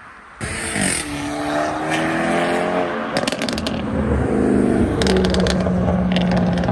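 A car engine revving hard as the car accelerates, its pitch climbing for a couple of seconds and then holding, with several bursts of sharp crackles.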